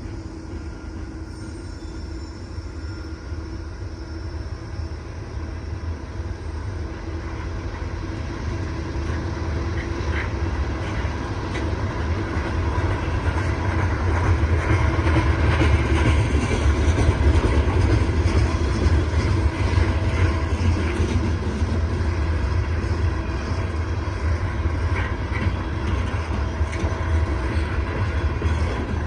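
CSX coal train rolling past: a steady rumble of wheels on rail with faint clickety-clack, building to its loudest around the middle and easing a little toward the end.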